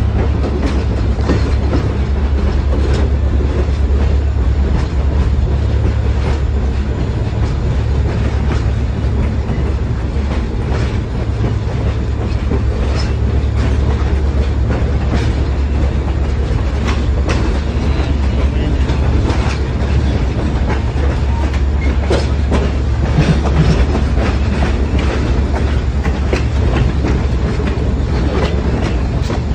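Passenger train running along the track, heard from an open-air car: a steady low rumble with irregular clicks of the wheels over rail joints.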